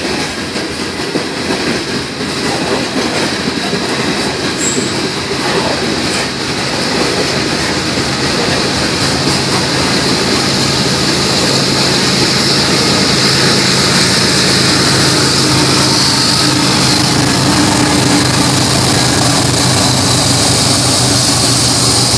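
Freight train's open-top hopper cars rolling past, steel wheels clattering on the rails. From about halfway through, a steady diesel engine hum grows louder and holds as the rear distributed-power locomotives come by.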